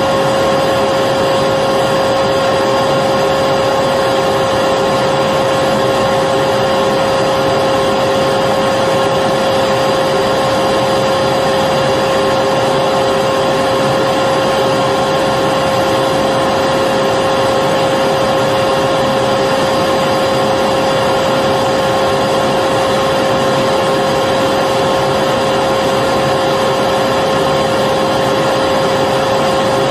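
Electric vacuum cleaner running continuously: a steady motor whine with a strong, unchanging hum over a rushing air noise.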